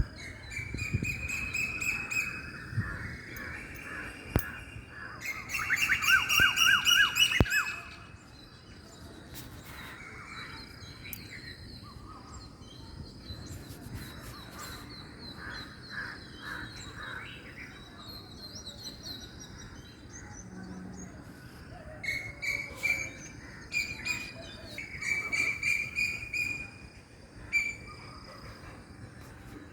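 Several wild birds calling and singing in a morning chorus. The loudest part is a rapid run of harsh, chattering calls from about five and a half to seven and a half seconds in, and a cluster of repeated whistled calls comes near the end.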